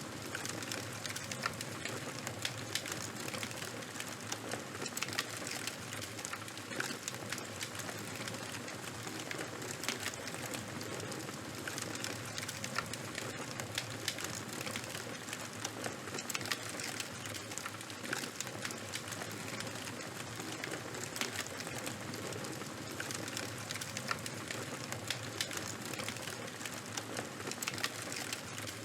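Fire crackling: a steady hiss dotted with frequent small, sharp pops and snaps.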